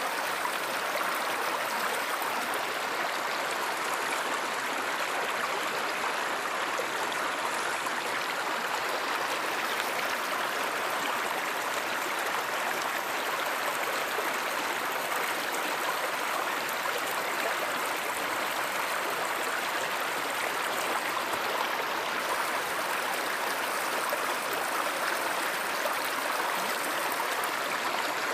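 A stream or river running steadily: a continuous, even rush of flowing water.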